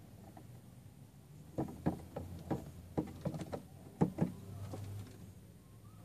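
A small bird attacking its reflection in a car's side mirror: a quick, uneven run of about a dozen taps and knocks as its beak, wings and feet strike the mirror, heard from inside the car, from about a second and a half in to past four seconds.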